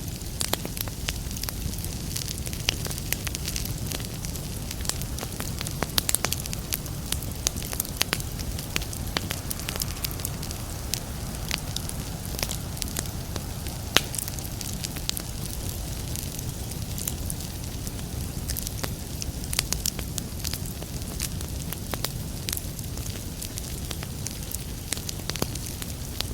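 Wood fire burning in a fireplace, with a steady low rumble and frequent irregular crackles and pops, one pop louder than the rest about halfway through.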